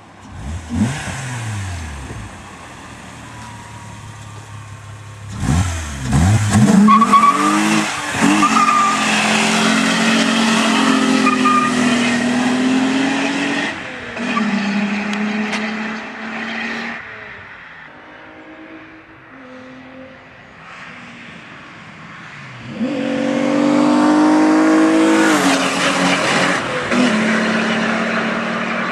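Volkswagen VR6 narrow-angle six-cylinder engine being revved hard several times, the revs rising and dropping back, with one long stretch held high for several seconds in the middle.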